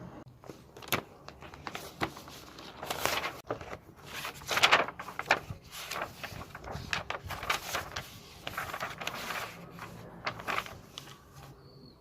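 Everyday handling noises: irregular rustles and sliding scrapes, each up to about a second long, with sharp clicks and light knocks scattered among them, loudest about four to five seconds in.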